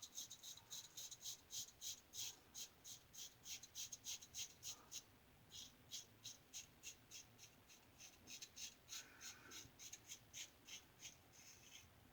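A 3D-printed injector-style razor with a Schick injector blade scraping through lathered stubble in short, quick strokes, about three to four a second, with a brief pause about five seconds in.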